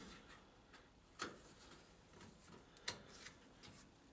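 Near silence broken by two faint sharp clicks, about a second in and just before the three-second mark, from small parts and tools being handled during disassembly.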